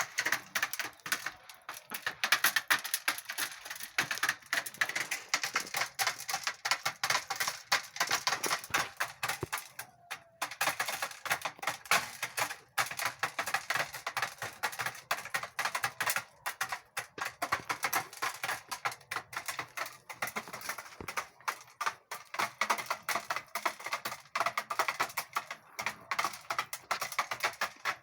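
Chickens pecking at dry corn kernels: a rapid, irregular clatter of sharp beak taps, many a second.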